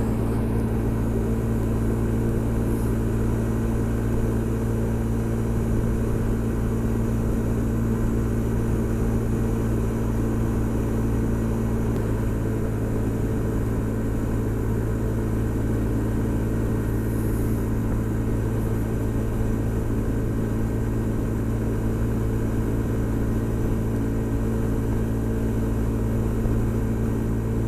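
Honda SH 300i scooter's single-cylinder engine running at a steady cruising speed, its pitch unchanging, over constant wind and road noise.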